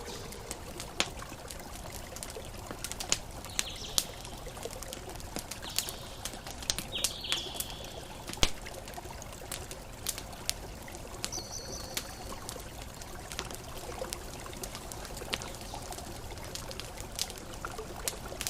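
Campfire crackling, with sharp pops every second or so over a steady soft wash of ocean waves. A few short high chirps come through now and then.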